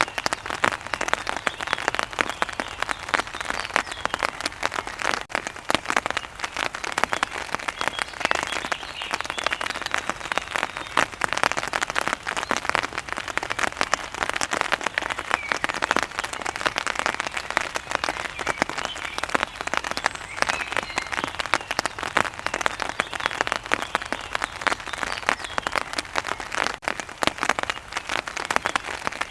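Steady heavy rain, a dense stream of drops hitting a surface, with birds chirping faintly in the background.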